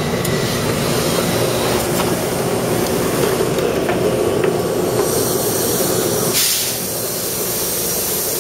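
Taipei Metro C301-type train running on the rails, a steady rumble and hiss, with a short loud burst of hiss about six and a half seconds in.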